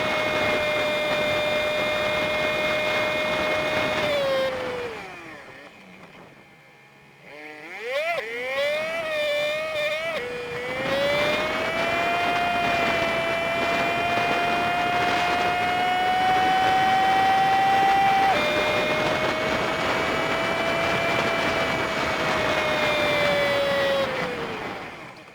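Honda Super Cub 50's small single-cylinder engine, sped up fivefold so it sounds as a high steady whine. About five seconds in it winds down to a near stop. It then picks up again in quick rising steps through the gears, and runs at a slowly rising cruise. It drops in pitch with a gear change a little past midway, then winds down again near the end.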